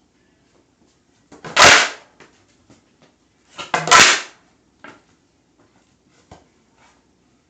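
A truckless fingerboard deck hitting and skidding on a hard surface: two loud hits about two seconds apart, with light clicks of fingers and board in between.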